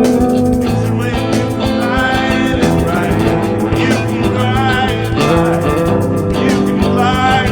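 Improvised rock jam: guitar playing over a drum kit keeping a steady beat, with a wavering melodic line above.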